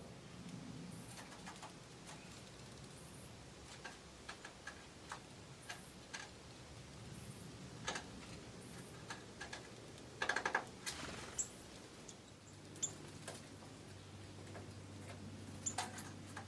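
Forest birds giving sparse, irregular short call notes and ticks, some very high and thin, with one louder, harsher call about ten seconds in. A faint low steady hum comes in during the last few seconds.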